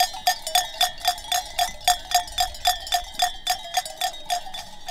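A metal sheep bell clanking in a quick, even rhythm, about four or five strikes a second, each with a bright ringing tone; it stops just before the end.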